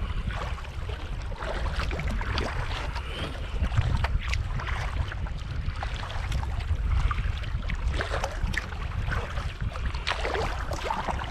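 Water splashing and lapping around a touring kayak as it is paddled, in irregular small splashes, over a steady rumble of wind on the microphone.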